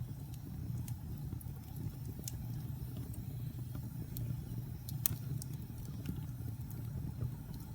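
Wood fire burning in a fireplace: a steady low rumble of flames with scattered sharp crackles and pops from the logs, the loudest pop about five seconds in.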